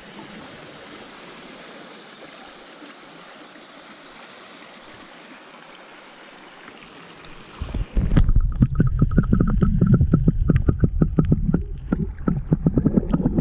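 Creek water flowing steadily. About eight seconds in, it gives way abruptly to a much louder, muffled low rumble with rapid irregular knocking.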